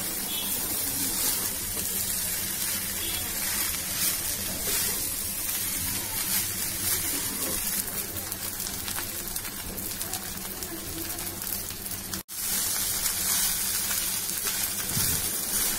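Chicken fried rice sizzling in a hot non-stick pan as a spatula stirs and tosses it: a steady hiss. It cuts out for an instant about twelve seconds in.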